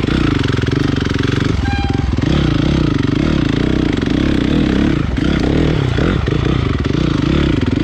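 Honda CRF450 single-cylinder four-stroke dirt bike engine through an HGS exhaust. The throttle is blipped on and off over rough ground, so the revs keep rising and falling, with short drops in between.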